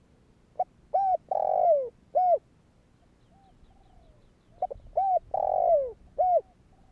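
Spotted dove singing: two coo phrases about four seconds apart, each made of short coos around a longer, rougher coo that falls in pitch, with fainter coos in between.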